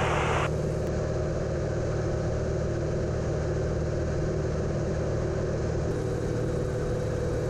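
Cessna 182's piston engine and propeller droning steadily in cruise, heard inside the cabin.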